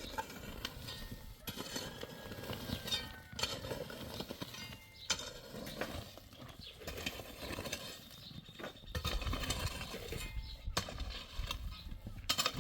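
Irregular knocks and clatter from hand work, with a few brief thin tones.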